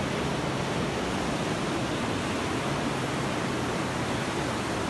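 Floodwater rushing: a steady, even roar of water with no breaks.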